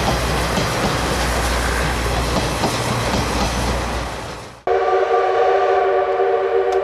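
A steam train running, with a rumble and a steady roar, which cuts off abruptly about four and a half seconds in. Then comes one long, steady blast of the C58 239 steam locomotive's whistle, several pitches sounding together.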